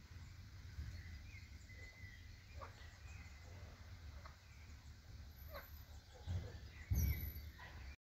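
Faint bird calls and chirps over a low, steady outdoor rumble, with two louder low bumps near the end.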